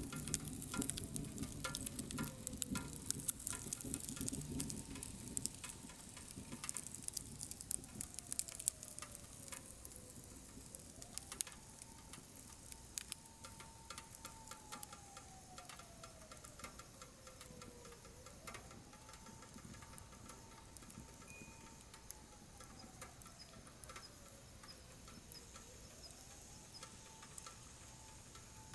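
Burning firewood in a wood stove crackling and popping with irregular sharp snaps, busier in the first few seconds and thinning out after. Under it a faint whistle recurs every seven or eight seconds, rising quickly, holding, then slowly sliding down.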